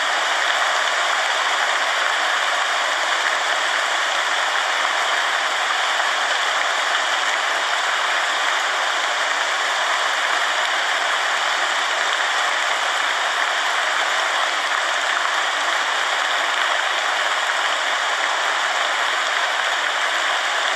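Steady rain, a dense even hiss.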